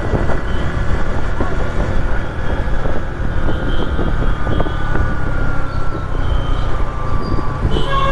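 Motorcycle riding in city traffic: steady engine and road rumble with wind on the helmet-mounted action camera's microphone. A vehicle horn starts sounding right at the end.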